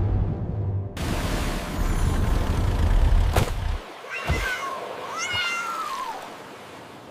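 A loud rushing noise over a low rumble, cut off about four seconds in. Then a cat meows twice: a short meow and a longer one that falls in pitch.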